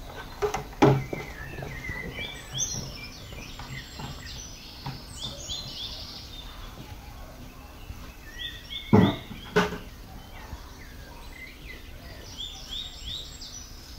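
Birds chirping in quick runs of short notes, three times, over a steady low rumble. Loud thumps cut in: one about a second in and two close together about nine seconds in.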